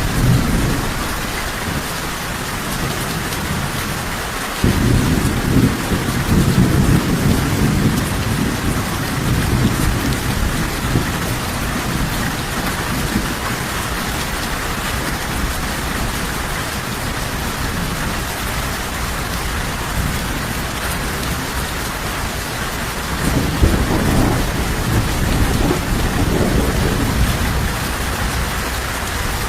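Steady heavy rain with low rolling thunder. One rumble starts suddenly about four and a half seconds in and rolls for several seconds, and another comes about three-quarters of the way through.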